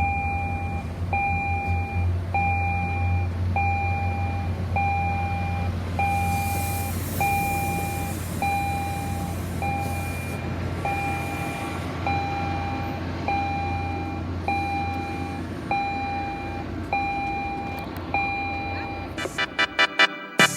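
Electronic warning beeper sounding an even tone about once a second, over a low steady engine hum that drops away later on; the beeping stops near the end.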